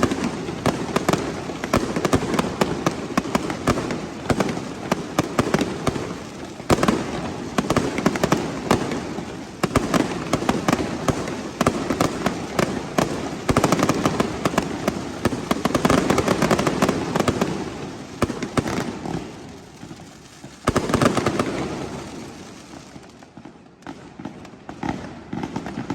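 Fireworks going off: a dense, continuous barrage of sharp firecracker bangs and cracks, with heavier volleys about 7, 14 and 21 seconds in. The barrage thins out briefly near the end before it picks up again.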